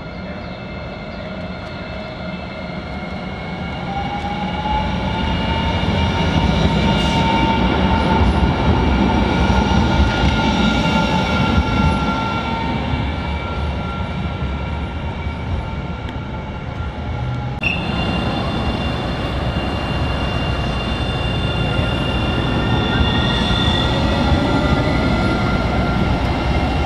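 Alstom Citadis tram running on its rails, getting louder over the first few seconds. Steady high tones sit over the rumble, along with a whine that glides up and then back down in pitch. The sound changes abruptly about two-thirds of the way through, and near the end a whine rises in pitch again.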